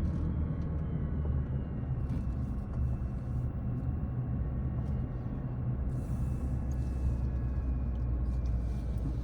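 Steady low rumble of a car's engine and tyres, heard from inside the cabin while driving downhill.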